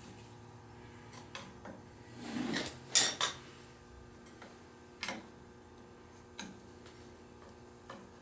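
Hand tools clinking and scraping on metal engine parts as a heat-loosened screw is worked out of the engine: a short scrape, two sharp clinks about three seconds in, then single clicks every second or so.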